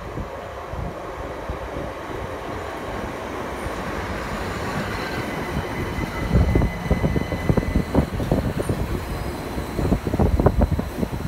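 Southern Class 377 Electrostar electric multiple unit running into the platform. Its rumble builds as it approaches, with a thin high whine around the middle, then the wheels knock and clatter over the rails as the carriages pass close by in the second half.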